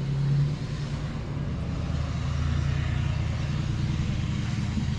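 Heavy truck diesel engine running steadily with a low, even drone.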